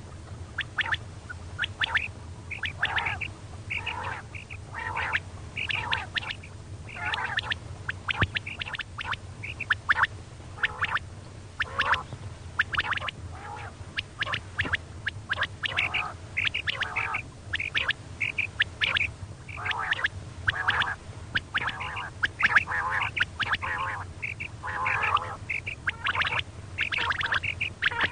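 Female quail calling, short notes following each other several times a second without pause, as played to lure quail. A steady low hum runs underneath.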